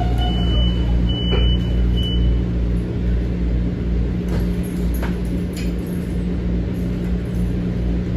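M7 electric commuter train running between stations, heard from inside the car: a steady low rumble with a constant electric hum. A few short high beeps sound in the first two seconds, and a few faint clicks come later.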